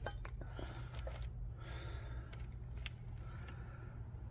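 Scattered light clicks and taps of brake pads being handled and compared, over a steady low hum.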